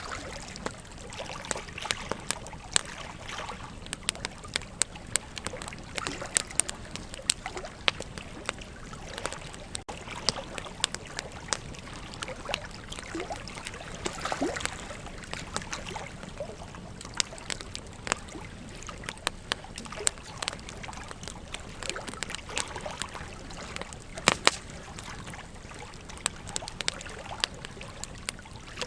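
Wood campfire crackling with frequent irregular sharp pops, a few of them louder, over the steady rush of flowing river water.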